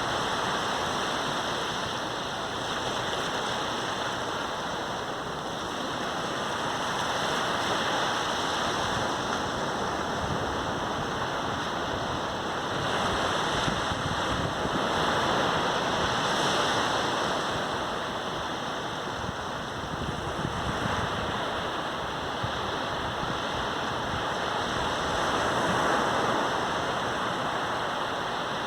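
Sea surf washing on a beach: a continuous rush of breaking waves that swells and eases every few seconds.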